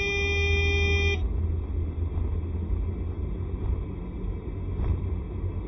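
Steady low rumble of a scooter ride in traffic, with wind and road noise. A held tone with several pitches is sounding at the start and cuts off abruptly about a second in.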